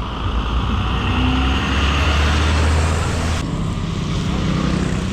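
Wind rush and road noise on a moving electric motorcycle: a steady low rumble with a hiss over it. The sound changes abruptly about three and a half seconds in, when the hiss drops and the deepest rumble fades.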